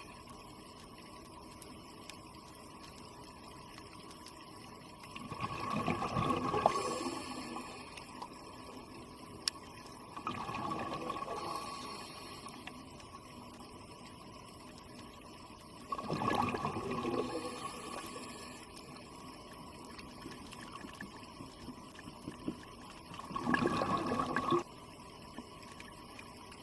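Scuba diver's regulator exhalations heard underwater: four bubbling gushes of air, one every five to six seconds, over a steady faint hiss.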